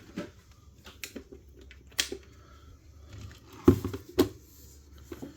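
Small clicks and knocks of a 1/64 scale diecast model truck being handled and set down on a display turntable, with two louder knocks close together near the end.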